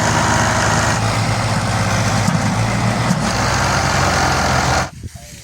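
Tractor diesel engine running loud, with a heavy pulsing low note. It cuts off abruptly just before the end.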